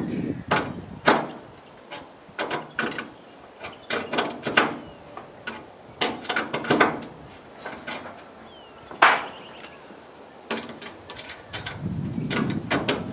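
Irregular knocks and clicks from work on solar-panel mounting rails and their fittings, with two sharper knocks about a second in and about nine seconds in.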